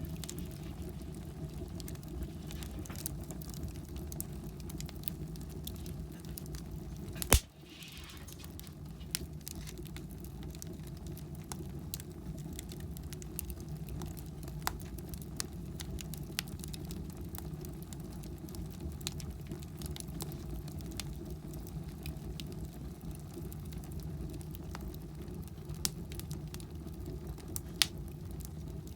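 Wood fire burning in a fireplace, crackling with scattered small pops over a steady low rumble, and one much louder sharp pop about seven seconds in.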